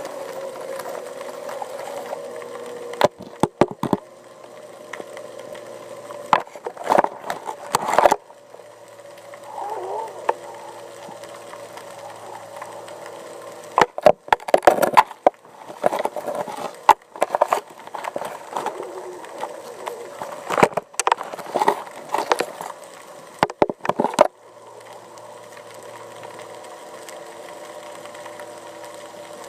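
Underwater recording: a steady mechanical hum with a few held tones, broken by clusters of sharp knocks and rattles.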